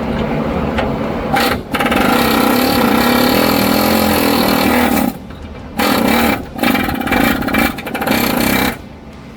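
Power tool, likely an impact wrench, driving a socket on a rounded-off bolt: one long run of about four seconds, then three shorter bursts, stopping shortly before the end. A steady low hum runs underneath.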